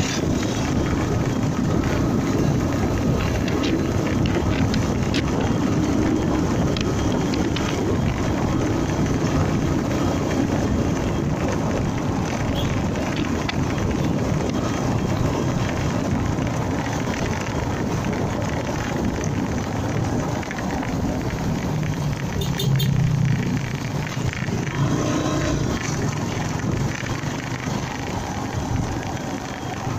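Motorcycle on the move: the Honda MegaPro Primus's single-cylinder engine running under steady wind and road noise, with traffic around. About 22 seconds in, a low rumble briefly gets louder.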